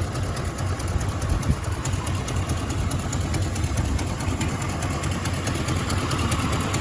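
Oldsmobile 350 V8 with a two-barrel carburetor idling steadily.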